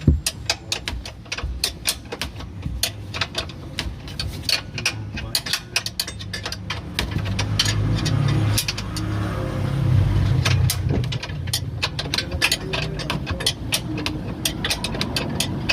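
Rapid, irregular metallic clicking of hand-tool work on a car's underside, several clicks a second, over a low engine hum that swells from about seven seconds in.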